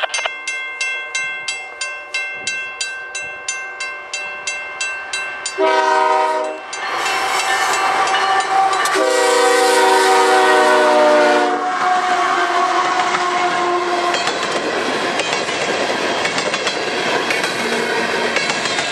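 Level-crossing bell ringing about three times a second, then the lead GE ES44AC diesel locomotive's air horn sounds a short blast about six seconds in and a longer one about three seconds later, followed by the steady rumble and wheel clatter of the freight train rolling past.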